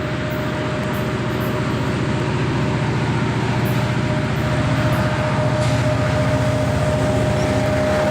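Train running with a fast, steady low throb and a constant mid-pitched whine over a rumbling noise, slowly growing a little louder.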